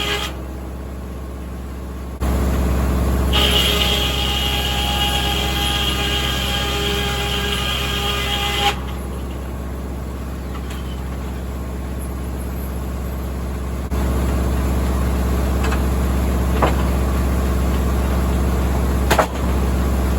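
Tractor-powered 1950 Corley circular sawmill running, with a steady low engine drone that gets louder twice. A high whine from the saw rises over it a few seconds in and stops about halfway through. A couple of sharp knocks come near the end.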